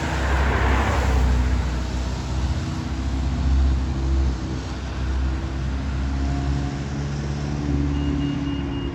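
Rally car engine idling with a deep, steady rumble and a slight shift in engine note. A steady high-pitched tone comes in near the end.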